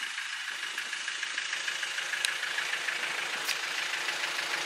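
Level crossing warning alarms sounding, a steady pulsing tone.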